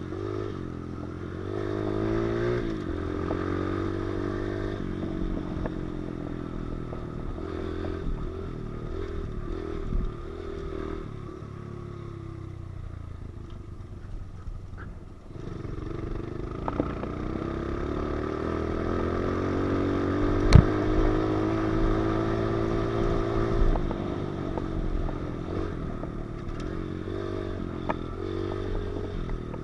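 Pit bike engine being ridden, its pitch rising and falling with the throttle, easing off about halfway through and then climbing again. A single sharp knock about two-thirds of the way in.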